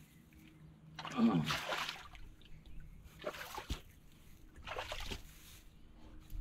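Muddy water splashing and sloshing in a dug-out hole, in three short bursts, as someone works in it.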